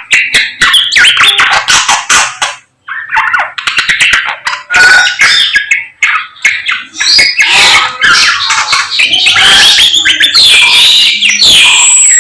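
A samyong songbird singing loudly in rapid, varied phrases of chirps, trills and whistles, with a brief pause about three seconds in.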